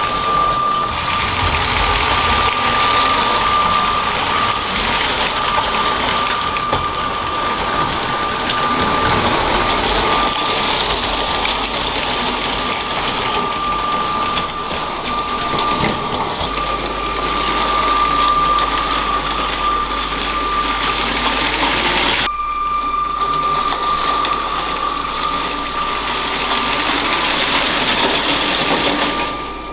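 A LEGO train's electric motor whining at a steady pitch as the train runs, with its wheels clicking and rattling along the plastic track. About two-thirds of the way through the hiss thins out while the whine carries on.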